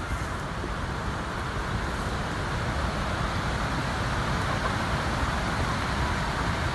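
Strong wind buffeting the phone's microphone: a steady noise, heaviest in the low end.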